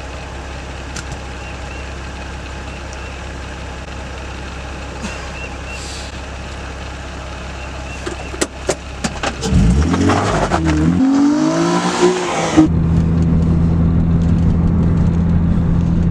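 Car engine idling with a steady low hum and a few sharp clicks. About ten seconds in it revs up and pulls away, its pitch rising and dropping back a couple of times, then settles into a louder steady drone as the car drives on.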